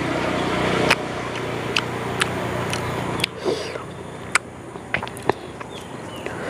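Close-up eating sounds of a mouthful of pomelo: chewing with a scatter of sharp wet mouth clicks and lip smacks, picked up close on a clip-on microphone. A steady low hum runs underneath.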